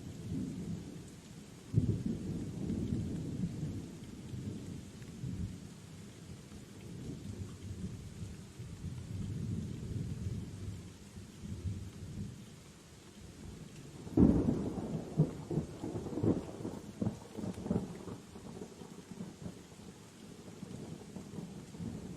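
Steady rain with thunder: a low rolling rumble swells about two seconds in, and about fourteen seconds in a sharper, louder clap breaks into several crackling rumbles that die away after a few seconds.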